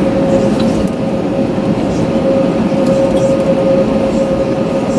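Steady cabin noise inside an Airbus A321neo taxiing after landing: the engines running at idle as a continuous rumble, with one steady whine over it.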